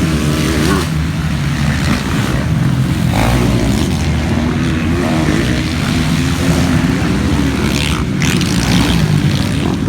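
Motocross bike engines revving, several at once and overlapping, loud and continuous.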